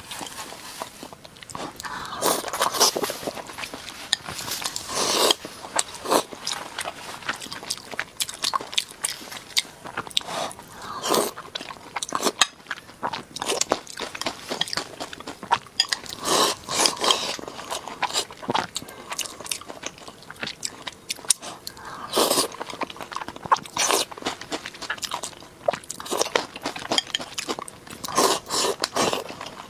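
Close-miked sounds of a person chewing and biting steamed pork and rice: irregular clusters of crunches, clicks and mouth sounds.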